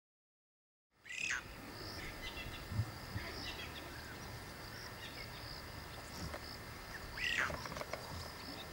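Wild birds calling and chirping in the bush, with two louder arching calls, one about a second in and one near the end, over a steady high-pitched buzz. The first second is silent.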